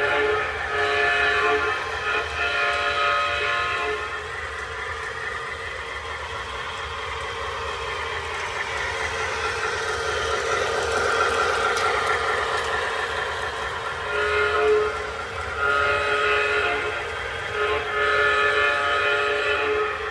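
Toy Soo Line F7 diesel locomotive's electronic sound-effect horn playing several multi-tone blasts, a group at the start and another near the end, over the steady sound of the train running.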